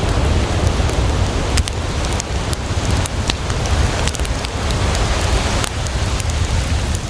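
Campfire crackling with frequent irregular sharp pops, over the steady wash and low rumble of sea waves.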